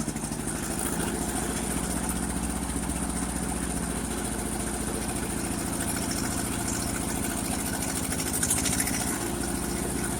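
1958 Ford 851 tractor's four-cylinder engine running steadily at idle, with a short louder moment about eight and a half seconds in.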